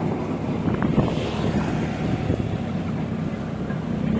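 Passenger train's rear coach rolling away, a fading rumble of wheels on rail with a few clicks. Near the end a motorcycle engine comes in.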